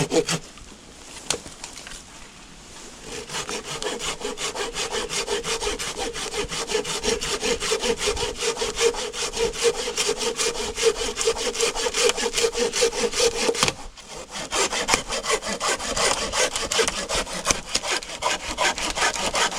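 Bamboo saw cutting a bamboo stalk just below a node with quick, even back-and-forth strokes. A steady tone rings under the strokes for much of the time. The sawing pauses briefly about two-thirds of the way through, then resumes.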